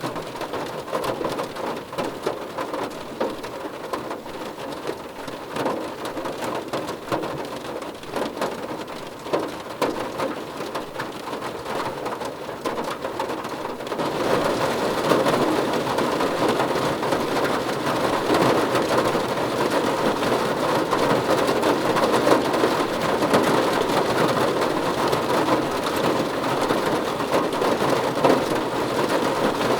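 Rain falling on a car roof, a dense patter of drops on the metal that grows louder and heavier about halfway through.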